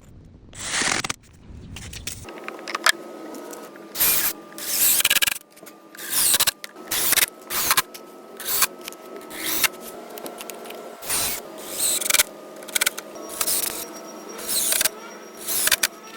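Short scraping or cutting strokes of hand work at a construction job, repeated about once a second over a faint steady hum.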